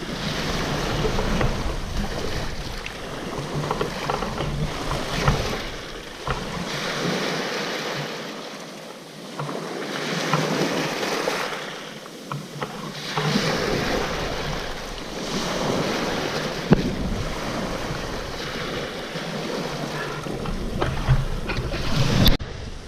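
Sea waves washing in and out against a rocky shore, swelling and fading every few seconds, with wind gusting on the microphone. There is a sharp click near the end.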